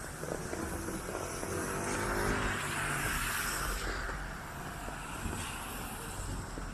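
A car passing on a damp street: engine hum and tyre hiss swell to a peak about two to three seconds in, then fade.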